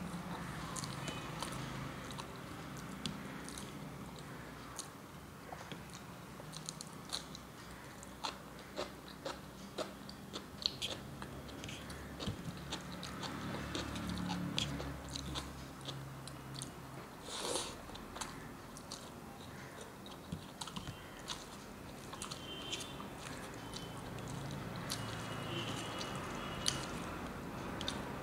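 A person chewing mouthfuls of rice and vegetable curry, with many small mouth clicks and one louder, sharper sound about two-thirds of the way through.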